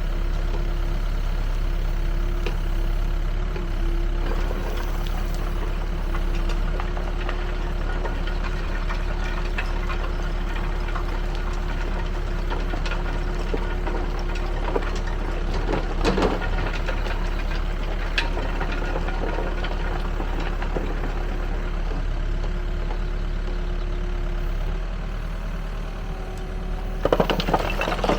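Backhoe loader's diesel engine running steadily while it drives a Gyro Star three-roll screening bucket, with a steady hum that stops about 25 seconds in. Bursts of clattering come about 16 seconds in and again near the end.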